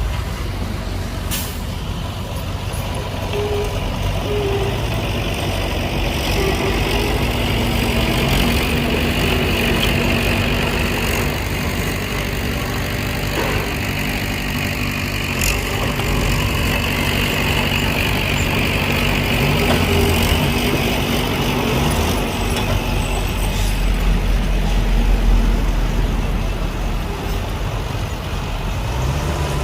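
Heavy diesel engines of dump trucks and a bulldozer running steadily at a loading site. A hiss swells and fades twice in the middle, and a deeper rumble builds near the end.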